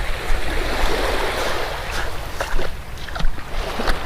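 Surf washing onto the beach, swelling about a second in, with wind rumbling on the microphone and a few short clicks.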